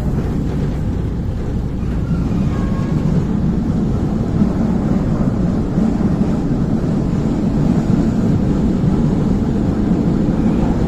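Moving train running with a steady low rumble.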